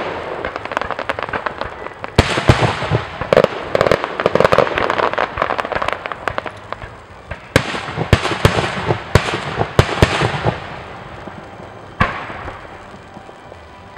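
Fireworks display: a rapid run of shell bursts with crackling, densest through the first ten seconds, then dying away, with one last sharp bang about twelve seconds in.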